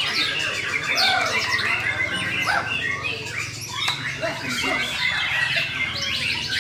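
Several caged songbirds singing at once, white-rumped shamas (murai) among them: a dense run of overlapping whistles, sweeps and chirps, over a low steady hum.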